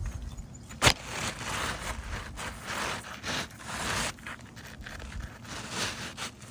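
Asphalt roof shingles being scraped and shuffled while a shingle is worked loose or slid into place, with one sharp knock just under a second in.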